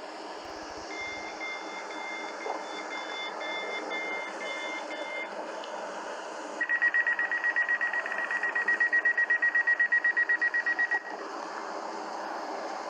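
Electronic railway warning signal beeping. First comes a faint intermittent two-tone beeping, then a loud, rapid pulsed beep, about six pulses a second, for some four seconds before it cuts off, warning of a train that is about to pass.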